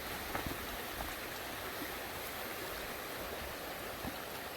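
River water rushing steadily, the Quinapoxet running high after heavy rain, with a few faint clicks.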